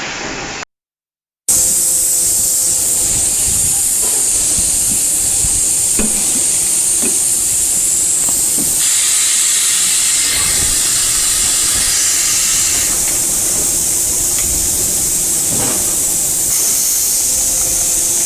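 Steady, loud, high-pitched hiss of air or gas under pressure from factory machinery, with a few faint clicks; it starts abruptly after a brief dead gap about a second in.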